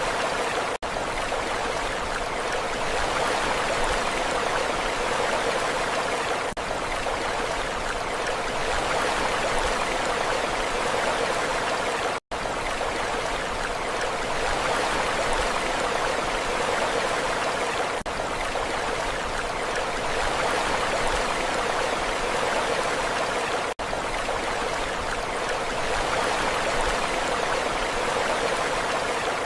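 Steady rushing water, an even hiss without swells, broken by a few very short dropouts, the deepest about halfway through.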